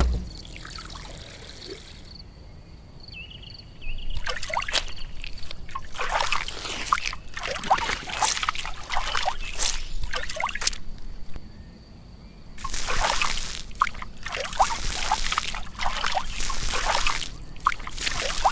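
Liquid pouring and sloshing in two spells of several seconds each, with quieter gaps before and between them.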